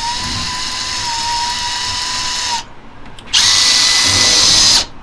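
Power drill driving screws into a wall-mounted shelf: the motor winds up and runs steadily for over two seconds, stops, then runs again louder for about a second and a half.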